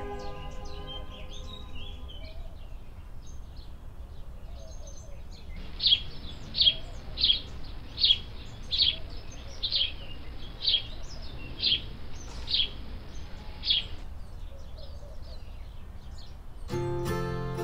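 A small bird chirping, a run of about ten short, sharp, high chirps less than a second apart, with fainter scattered chirps before them.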